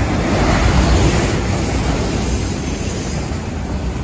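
Loaded autorack freight cars passing at speed close by: a loud, steady rumble and rush of steel wheels on the rails, swelling to its loudest about a second in.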